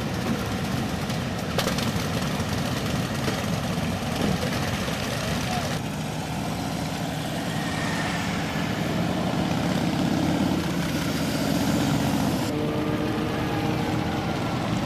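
Motorcycle engines running at idle, with people talking in the background.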